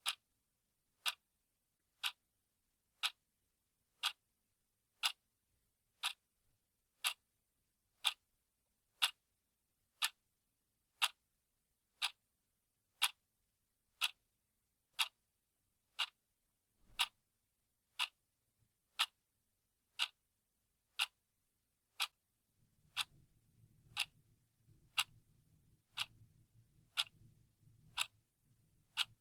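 Clock ticking steadily, one sharp tick every second. A very faint low rumble comes in near the end.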